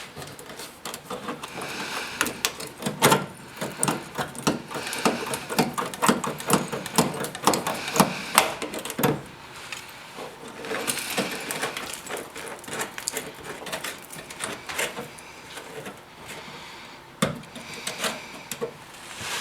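Irregular, rapid clicking and scraping of a tool working on bare body metal, with busier stretches and short lulls.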